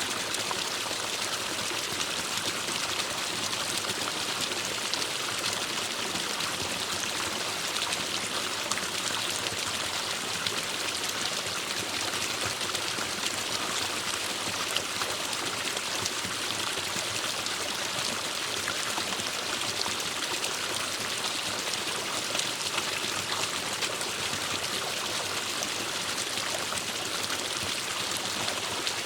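Forest stream running steadily, an even rush and babble of flowing water.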